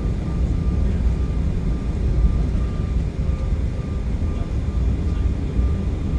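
Steady low rumble of an Embraer E175 airliner's cabin, the noise of its twin turbofan engines and airflow heard from inside, with a faint repeating high tone over it.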